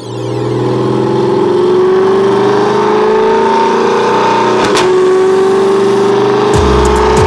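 Turbocharged pickup truck engine pulling under load on a chassis dyno, its pitch climbing steadily as the revs rise, with a deeper rumble joining near the end.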